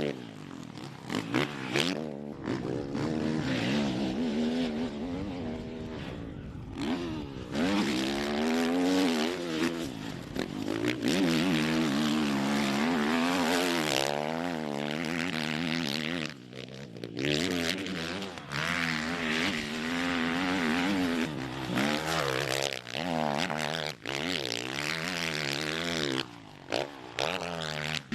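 Motocross bike engine revving hard as it is ridden, its pitch climbing and dropping over and over through the gears. The sound breaks off and jumps abruptly several times.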